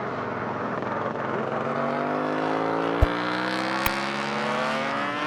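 A vehicle engine accelerating, its pitch climbing steadily from about two seconds in, with two short clicks about three and four seconds in.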